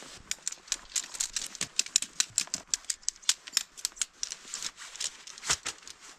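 A rapid, irregular run of sharp clicks or crunches, about five a second, stopping just before the end.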